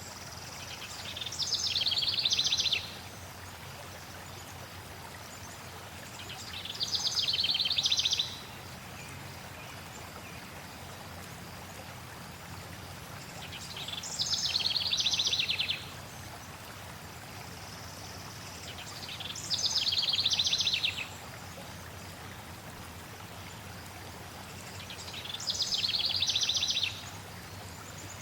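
A songbird repeats the same fast trilled song five times, about every six seconds; each phrase swells in loudness for a second or two and stops abruptly. Underneath, flowing water runs steadily.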